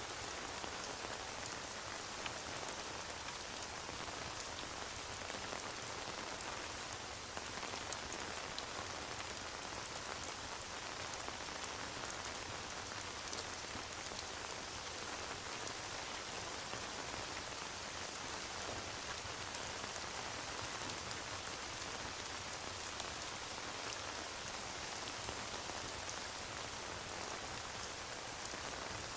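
Steady rain ambience, mixed with a fireplace crackling in scattered faint clicks.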